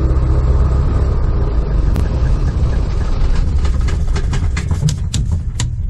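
PA-18 Super Cub's piston engine running at idle, a steady low drone. From about halfway through, a quick, irregular run of sharp clicks sits over it.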